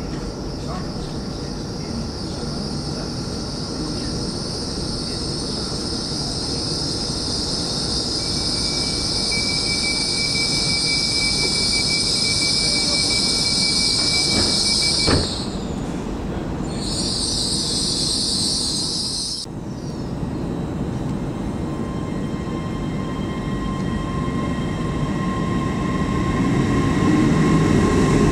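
GWR Hitachi Intercity Express Train running into the platform, its rumble growing louder as the carriages draw alongside. A high steady hiss rides over it and cuts off suddenly about two-thirds of the way through. There is a sharp click about halfway, and a faint steady whine in the last few seconds.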